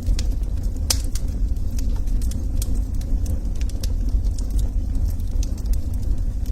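Wood fire burning in a fireplace: a steady low rumble of the flames with frequent sharp crackles and pops from the logs, one louder pop about a second in.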